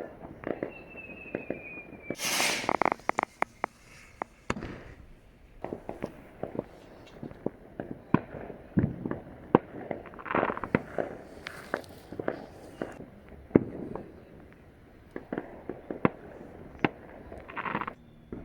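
Fireworks going off all around: a steady scatter of sharp bangs and crackles. A rocket whistles with a slightly falling pitch early on, then a loud hissing burst about two seconds in breaks into rapid crackling.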